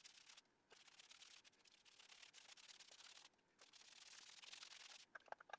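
Faint scratchy brushing from a big paint brush working primer into a rough concrete wall, in long strokes broken by a few short pauses.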